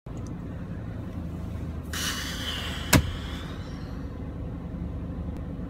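Steady low hum of a car's running engine, heard inside the cabin. About two seconds in comes a rush of hiss lasting over a second, and at its end a single sharp click, the loudest sound.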